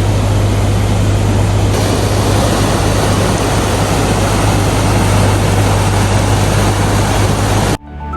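Water pouring over a weir: a loud, steady rush with a strong low rumble that cuts off suddenly near the end.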